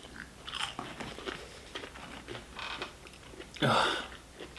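People chewing chicken nuggets with small wet mouth clicks and smacks, and a louder half-second rush of noise about three and a half seconds in.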